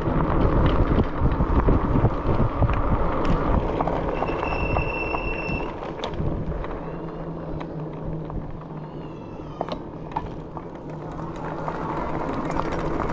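A vehicle rolling slowly, heard from inside, with a steady low road rumble and scattered small clicks and knocks. About four seconds in, a high, steady squeal sounds for about a second and a half.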